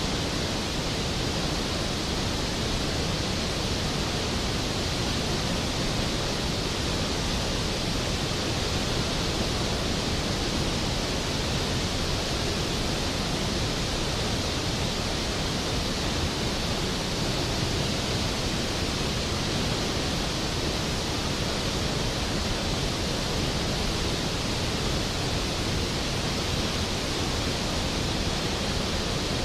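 Large waterfall, Skógafoss, with the water falling in a steady, unbroken rush.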